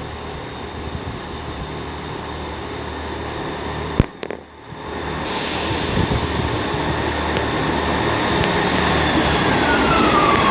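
Diesel multiple unit running as it pulls out of the station, with a steady low engine throb. About four seconds in there is a sharp click and a brief drop in level. Near the end a whine falls in pitch.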